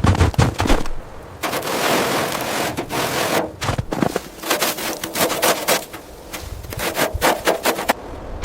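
Restoration work done by hand: a few sharp knocks, then about two seconds of steady scraping, then a quick, uneven run of taps and clicks.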